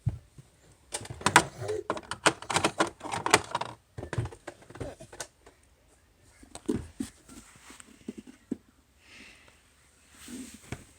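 Toy food and playset pieces clicking and clattering as they are handled, in a busy run of quick clicks and then a few scattered ones.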